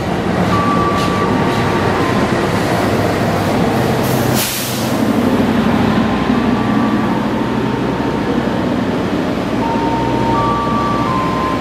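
CC206 diesel-electric locomotive and its passenger coaches rolling slowly past, with a steady rumble of engine and wheels on rail. Thin high squeals come and go, and there is a short hiss about four and a half seconds in.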